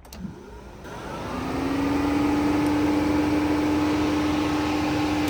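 A click, then a motor on the car whirs up over about a second to a loud, steady hum with a clear tone that rises slightly and then holds.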